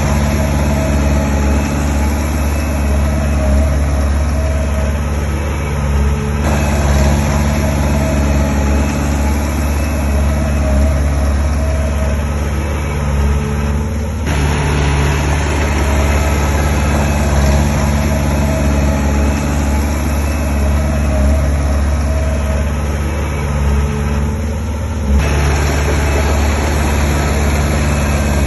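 Heavy diesel engines of earthmoving machines (bulldozer and dump trucks) running steadily at a work site, the sound shifting abruptly three times.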